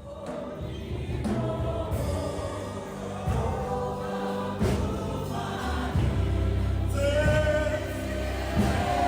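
A choir singing gospel music, accompanied by sustained low instrumental notes and occasional drum hits.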